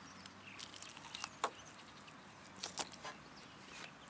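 Faint chewing of crispy fried chicken, with a few short crunches of the coating between quieter mouth sounds.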